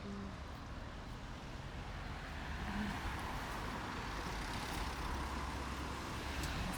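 Road traffic: a motor vehicle passing close by, with engine rumble and tyre noise that build from about two seconds in and stay loudest through the second half.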